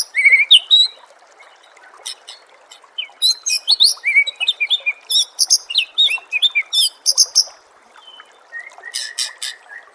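A songbird singing fast, varied phrases of high whistles and chattering notes, in bursts separated by short pauses. A faint steady trickle of water runs underneath.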